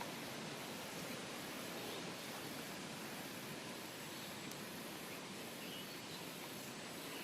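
Steady outdoor background hiss with a few faint, short high chirps from small birds or insects.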